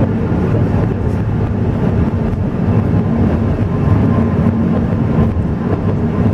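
Alishan Forest Railway train running, a steady low rumble.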